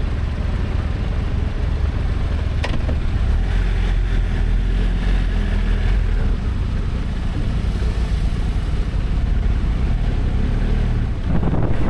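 Motorcycle engine running at low road speed, with one sharp click a little under three seconds in.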